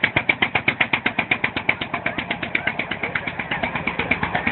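Engine running with an even, rapid pulse of about nine to ten beats a second, easing slightly toward the end.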